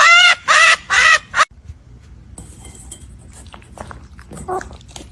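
A bird calling loudly three times in quick succession, harsh and wavering in pitch, then only faint scattered ticks.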